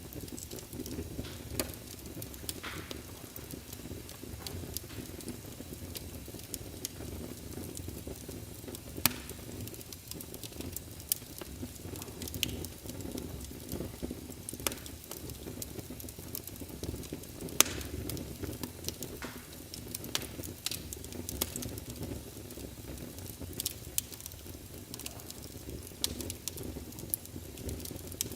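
Wood fire crackling in a fireplace: a steady low rumble of flames with frequent, irregular sharp pops and snaps, a few of them louder than the rest.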